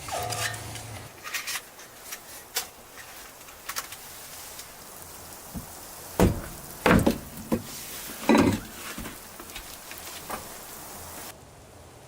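Scattered light clicks and knocks of things being handled, with three heavier thuds in quick succession about halfway through.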